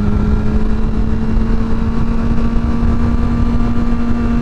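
Motorcycle engine running at a steady cruise, its note rising slowly and slightly, with wind rumbling on a helmet-mounted microphone.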